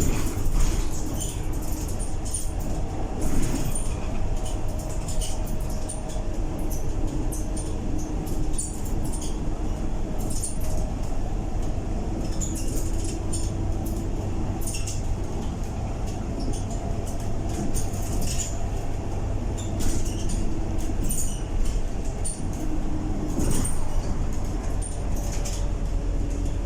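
A Scania K230UB bus with a ZF six-speed automatic gearbox, heard from on board while driving: a steady low engine rumble with a held drivetrain tone that comes and goes and shifts in pitch, over frequent small rattles and clicks from the body.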